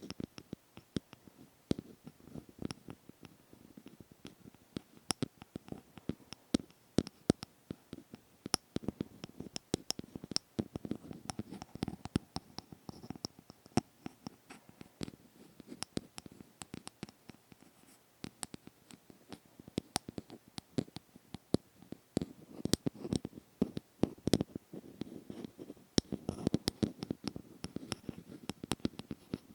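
Close-miked ASMR scratching and tapping: a dense, irregular run of small sharp clicks and scrapes, with no talking.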